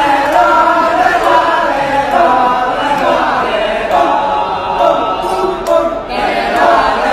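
Kecak chorus: many voices chanting together in the Balinese kecak style.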